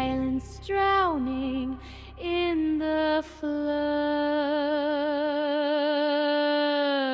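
Female voice singing slow notes without clear words, several sliding downward, then one long held note with vibrato, over a low backing hum that fades out before the end.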